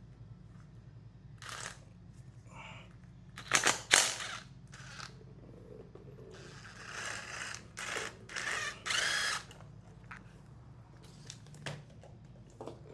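A power tool run in a series of short bursts, loudest about three and a half seconds in, backing bolts out of an engine on a stand; one burst near the end rises in pitch as the tool speeds up.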